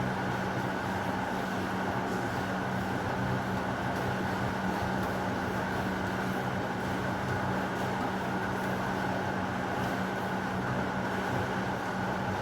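Steady rain falling, an even wash of noise with a constant low hum beneath it and no thunderclap.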